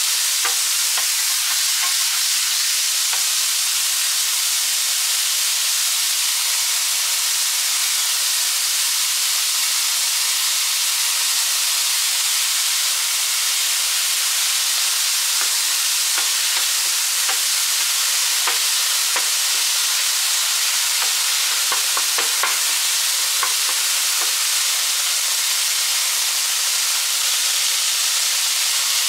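Beef mince sizzling steadily as it fries in a hot pan, with scattered scrapes and taps of a wooden spatula stirring it, most of them partway through.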